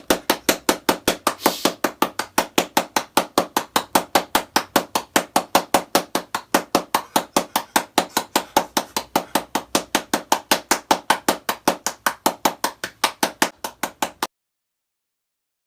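A fast, even series of sharp knocks or taps, about four a second, that cuts off suddenly near the end.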